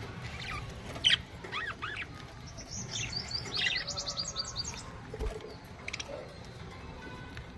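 Budgerigars chirping and warbling: a sharp call about a second in, then a quick run of short high notes through the middle, and a few more chirps near the end.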